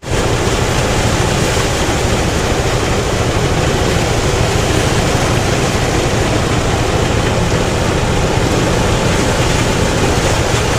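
Engine-driven rice threshing machine running steadily: a loud, dense mechanical noise over a low engine drone.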